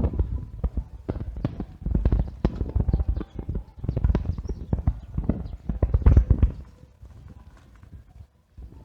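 A bicycle rattling and knocking as it rides over an uneven surface: rapid, irregular clattering thumps that die down near the end.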